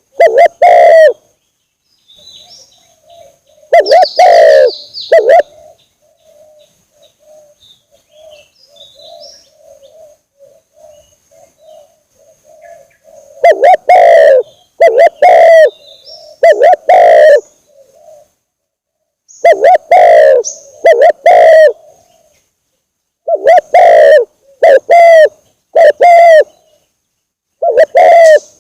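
Spotted dove cooing loudly in repeated phrases of two to four coos, a few seconds apart. A long pause in the first half leaves only faint chirping from other birds.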